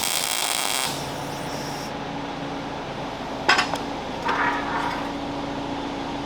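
A short tack weld, the welding arc crackling for about a second and a half at the start, followed by a steady hum, a sharp metal clink about three and a half seconds in and a brief scrape just after.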